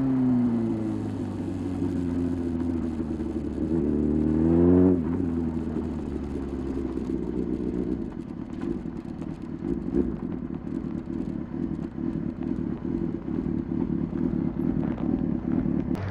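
Sport motorcycle engine, plausibly the Honda CBR600RR's inline-four, on the move: revs fall away at first, climb briefly about four seconds in and drop off sharply about five seconds in, then settle to a low, steady, pulsing note at low revs.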